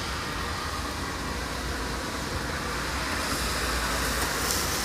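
Steady outdoor background noise, a low rumble under an even hiss with no distinct events, the hiss growing slightly stronger near the end.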